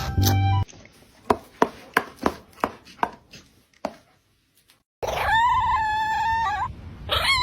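A series of sharp taps, about three a second, then a pause. After it come two long, high-pitched cries from a pet, each held about a second and a half and falling slightly in pitch at the end.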